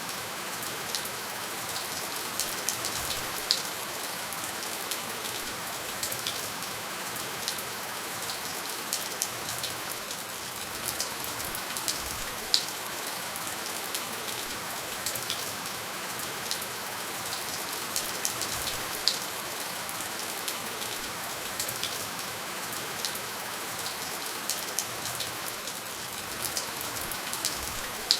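Steady rainfall with no thunder: an even hiss of rain with many individual drops ticking sharply on a hard surface close by.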